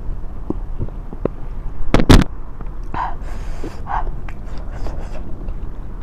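Close-up eating noises at a table: scattered small clicks and mouth sounds, with two sharp knocks in quick succession about two seconds in, the loudest sounds here.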